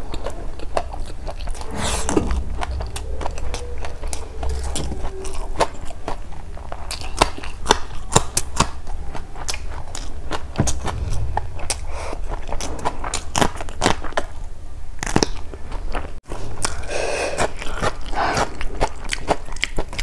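Close-miked chewing and lip-smacking of a mouthful of curry-soaked rice, a dense run of short wet clicks, briefly cut off about sixteen seconds in.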